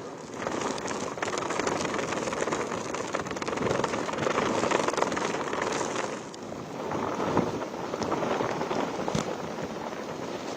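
Cyclone wind and heavy rain: a loud, steady rushing noise that swells and drops in gusts, dipping briefly about six seconds in.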